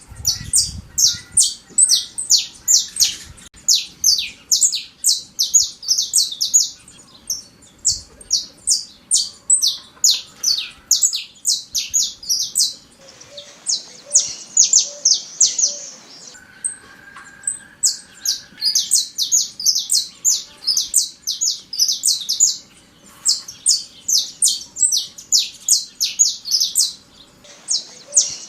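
Saffron finch (Sicalis flaveola) singing loudly: long phrases of rapid, high, clipped notes, broken every few seconds by short pauses.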